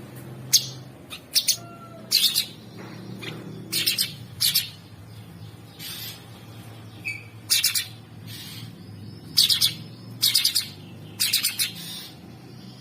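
Cucak sungkok songbird singing a rough, harsh chattering song: short scratchy bursts, often in pairs, about once a second, over a faint low hum.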